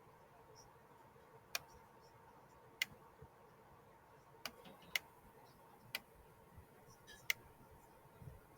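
Six sharp single clicks at irregular intervals over a faint steady hum.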